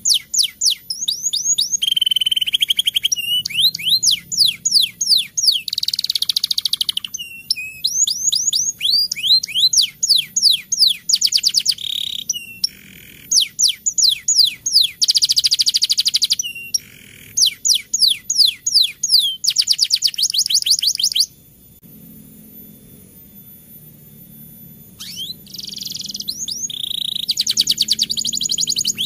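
Domestic canary singing in long rolling trills, fast runs of repeated high notes that each sweep downward, broken by short varied phrases. The song stops for a few seconds past the middle, then starts again.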